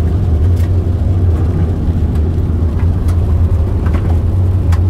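Steady road and engine noise inside a moving car's cabin: a constant low drone with tyre rumble, and a few faint clicks.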